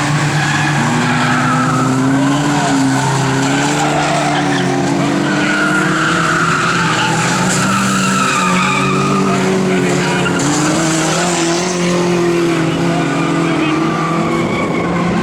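Engines of several banger racing cars running hard together as the pack laps the track, their pitches rising and falling against one another.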